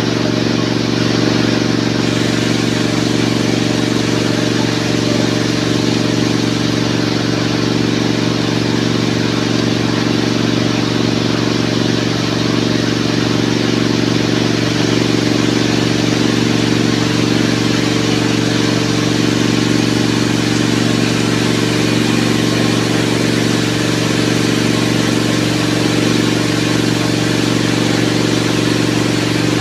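Heavy rain falling steadily, with a steady low drone running underneath it.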